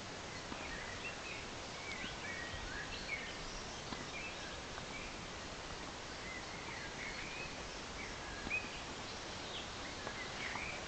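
Birds calling and singing in the background: many short, quick chirps and twitters, over a steady hiss of outdoor ambient noise.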